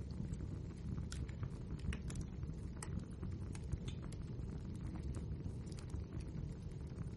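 Wood fire burning in a fireplace: a steady low rumble with frequent sharp crackles and pops, a few of them louder, at irregular moments.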